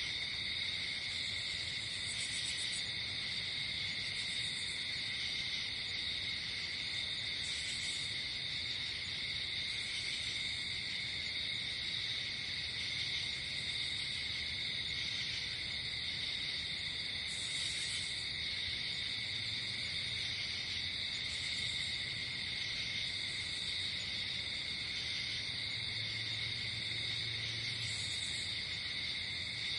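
Night insect chorus: crickets trilling steadily without a break, with a higher-pitched insect buzzing in short bursts every couple of seconds.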